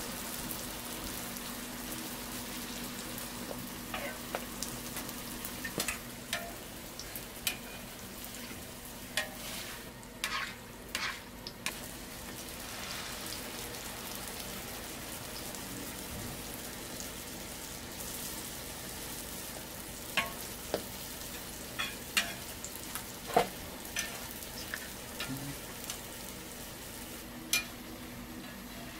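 Hotteok (Korean sweet pancakes) frying in shallow oil on a flat griddle: a steady sizzle with scattered sharp clicks and pops.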